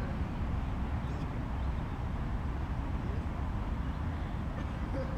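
Steady low rumble of a vehicle running, even throughout, with a faint short chirp-like sound near the end.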